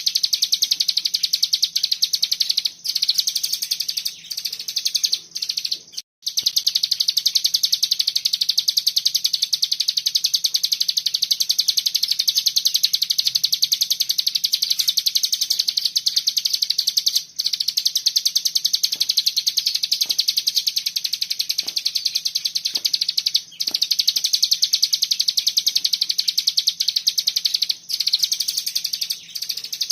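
Cigun (ciblek gunung) songbird singing its 'bren' song: a dense, very rapid high-pitched chattering trill that runs almost without pause, broken only by a few brief stops.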